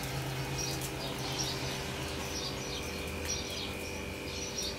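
Short high bird chirps repeating about twice a second over a steady low hum.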